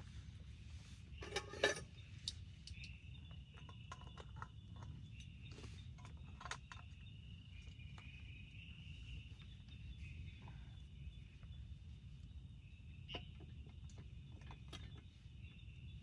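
Forest insects chirring in a steady high drone over a low rumble, with scattered clicks and knocks of gear being handled, the loudest a short clatter about a second and a half in.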